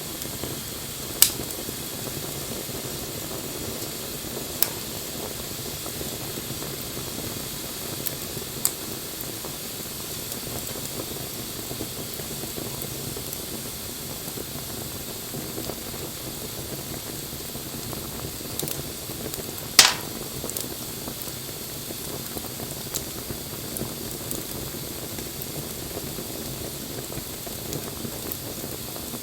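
Wood fire burning with a steady crackling hiss and occasional sharp pops, the loudest one a little before two-thirds of the way through.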